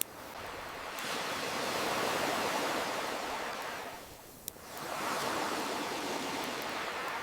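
Ocean surf washing in and drawing back, swelling and fading with a lull just past the middle, mixed with a campfire. One sharp crackling pop from the fire comes at the lull, with a few faint crackles elsewhere.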